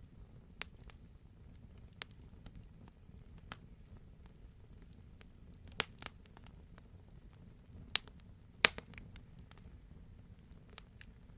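Wood fire crackling: scattered sharp pops and snaps over a soft low rumble, with two louder pops about eight seconds in.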